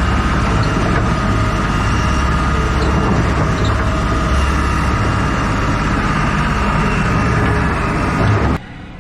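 Heavy vehicle engine running steadily with a deep rumble, cutting off abruptly near the end.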